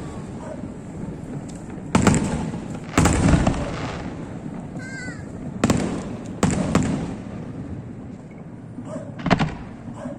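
Aerial fireworks shells bursting: about five sharp booms spread over the stretch, each trailing off in a rolling rumble.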